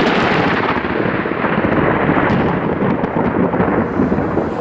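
A long, steady rumble of thunder from a nearby thunderstorm, mixed with wind noise.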